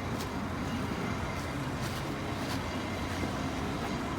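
A vehicle engine idling steadily, a low even hum with a few faint ticks over it.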